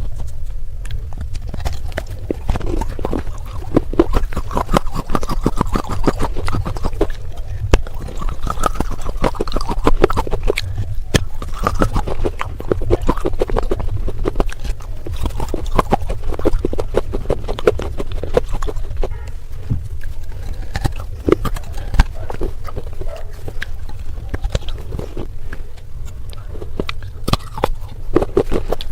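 Pieces of baked red clay pot being crunched close to the microphone: a dense, unbroken run of sharp crackling crunches over a low rumble.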